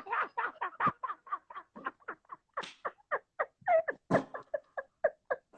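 A person laughing hard, in a long unbroken run of short, pitched ha-ha pulses, about four or five a second.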